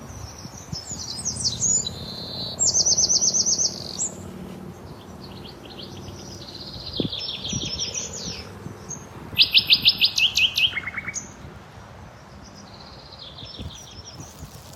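Songbirds singing in woodland: several phrases of fast trilled notes, one after another, the loudest about nine and a half seconds in.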